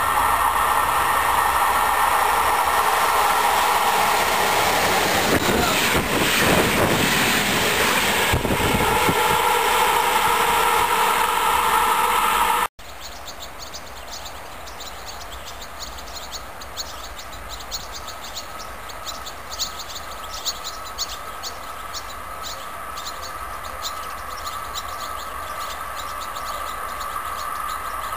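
An electric locomotive-hauled train approaches and passes close by: a steady whine with wheels clattering over the rails as it goes past. After an abrupt cut about 13 seconds in, it is much quieter, with rapid repeated chirping while a distant train slowly draws nearer.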